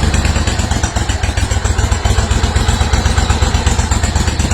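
Kohler 25 Command V-twin engine on a zero-turn mower running steadily just after starting, with a fast, even firing pulse.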